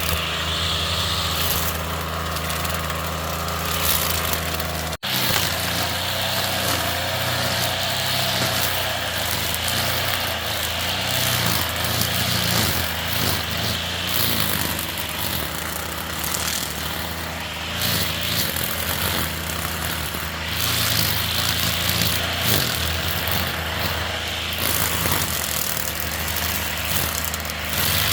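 A small engine running steadily, with a short sudden break about five seconds in.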